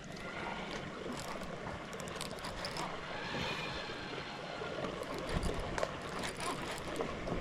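Steady rush of a fast-flowing flooded river, with a few faint clicks.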